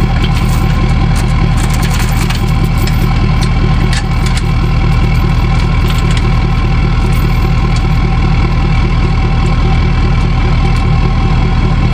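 Truck engine running steadily with an even, rapid pulse.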